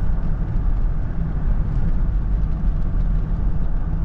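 Steady road and engine noise inside a moving vehicle's cabin, a continuous low rumble.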